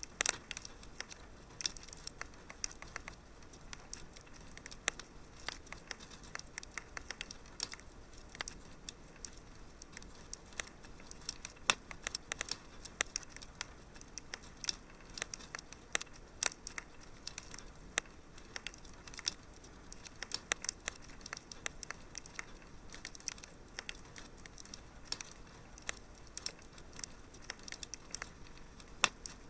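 Fireplace fire crackling: irregular sharp pops and snaps, some louder than others, over a faint steady hiss.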